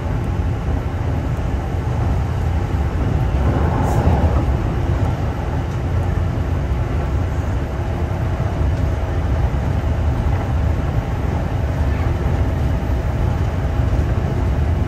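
Kintetsu 2800 series electric train running at speed, heard from inside its front car: a steady rumble of wheels and running gear on the rails, with a brief louder clatter about four seconds in.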